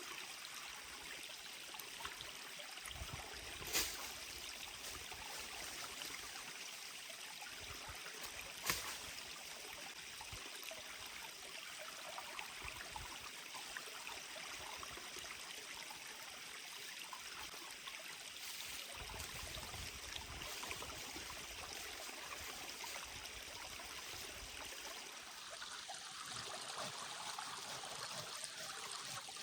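A mountain stream running steadily, with two sharp clicks, one about four seconds in and another about five seconds later.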